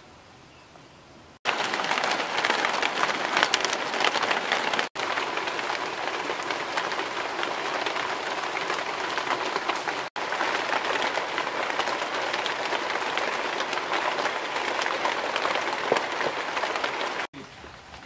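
Steady rain falling on muddy ground and puddles, a dense spray of fine drop ticks that starts suddenly about a second and a half in, drops out for an instant twice, and cuts off just before the end.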